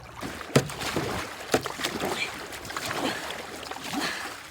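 Floodwater sloshing and splashing around a kayak, with a couple of sharp knocks, about half a second and a second and a half in.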